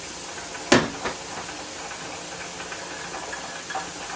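Pressure canner venting a steady stream of steam, a constant hiss as it purges air before being brought up to pressure. A sharp knock just under a second in, and a fainter one shortly after.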